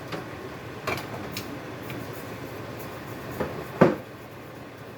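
Cans of vegetables knocking and clattering against each other as they are shifted around on a shelf: a handful of separate knocks, the loudest one a little before the end.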